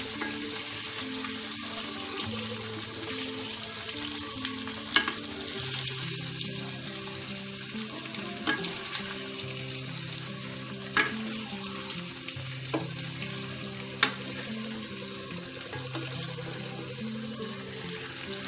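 Batter-fried prawns with onion and capsicum sizzling in sauce in a hot wok while being stirred with a spatula. A few sharp taps of the spatula on the pan stand out, the loudest about fourteen seconds in.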